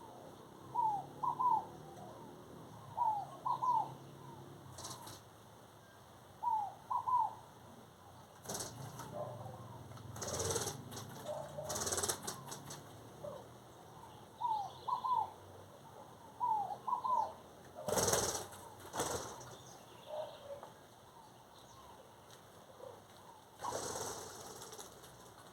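A bird calling over and over in short phrases of two or three quick, falling notes, roughly every two seconds. Several brief rushing noises come in among the calls, the loudest about two-thirds of the way through.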